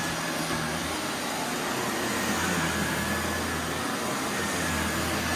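Vacuum cleaner running steadily over carpet, with a faint high whine above the rush of air and a low hum that swells and dips.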